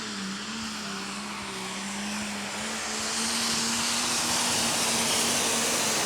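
Limited Superstock pulling tractor's turbocharged engine running flat out under full load as it pulls the sled, with a steady drone that grows louder about halfway through.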